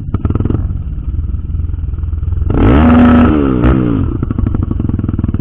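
Trail motorcycle engine running with a rapid, steady pulse. About halfway a louder engine rises in pitch and falls away again over about a second and a half.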